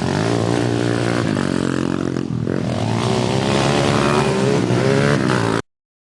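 Pit bike engine running and revving, its pitch rising and falling, then cutting off suddenly near the end.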